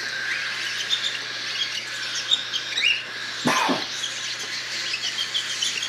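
A flock of young cockatiels chirping and peeping, many short high calls scattered throughout, with one louder sound falling in pitch about three and a half seconds in. A steady low hum runs underneath.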